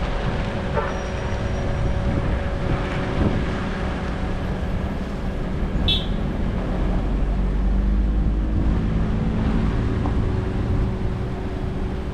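Vehicle engines running steadily with a constant hum, swelling a little past the middle, with a brief sharp click about six seconds in.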